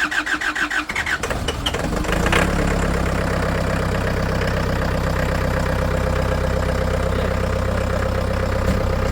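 A vehicle engine being cranked by its starter, a fast rhythmic churning, catches about two seconds in and settles into a steady idle.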